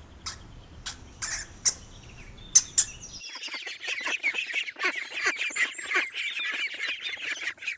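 Hamster sounds: a few sharp, separate squeaks and clicks, then after about three seconds an abrupt change to dense, rapid, high-pitched squeaking that runs on.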